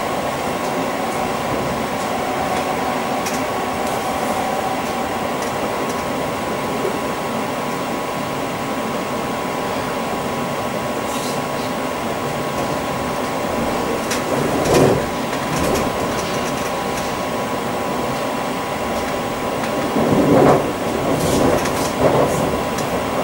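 Inside a Class 345 (Bombardier Aventra) electric train running between stations: a steady rumble of wheels on rail with a constant electric hum holding a few steady tones. A few brief louder surges of noise come about two-thirds of the way in and again near the end.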